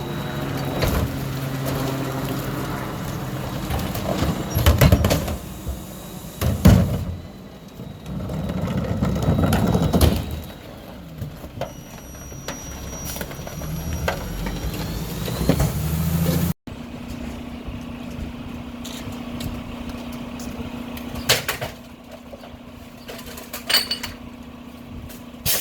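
Mack LR rear-loader garbage truck's engine running, with several loud bangs and clatters in the first ten seconds. After a sudden break about two thirds of the way in, a quieter steady hum continues with a few more knocks.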